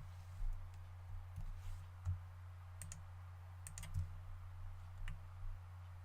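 A few separate computer mouse clicks, over a steady low hum.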